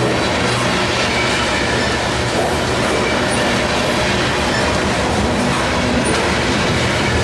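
A freight train rolling past close by: a steady rumble of wheels on rail, with a faint high squeal now and then.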